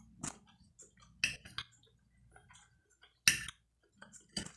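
Close-up mouth sounds of a person chewing fried smoked sausage: a handful of short, wet smacking clicks, the loudest about three seconds in.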